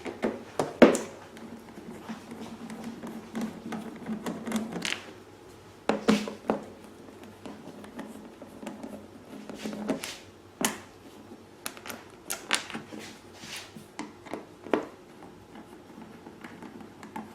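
Scattered clicks, taps and knocks of a screwdriver working the Phillips head screws and handling the plastic side panel of a Predator 2000 inverter generator, with a few louder knocks among them.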